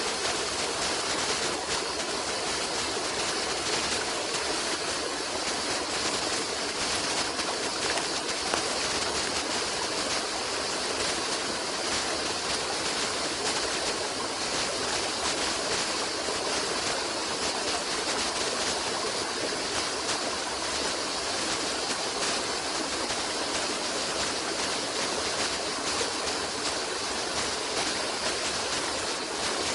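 Running water rushing steadily, an even hiss with no pauses or changes, like a fast stream over rocks.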